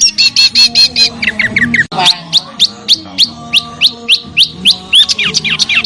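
Small songbird calling: a fast series of sharp high chirps, then, after a brief break about two seconds in, a regular run of short downward-sweeping whistled notes at about three to four a second.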